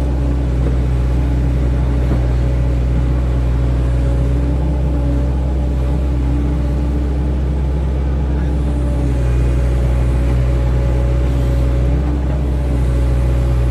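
Excavator's diesel engine running steadily at a constant pitch: a deep drone with a steady higher tone over it.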